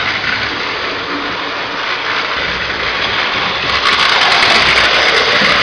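Toy electric train running fast around its track: a steady noise of motor and wheels close to the microphone.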